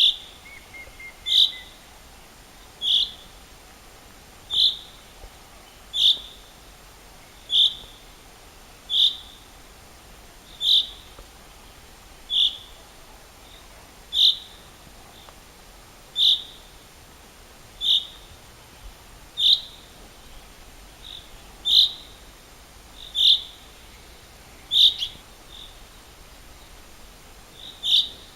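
A bird calling one short, sharp, high note over and over, about every one and a half seconds, in a long even series.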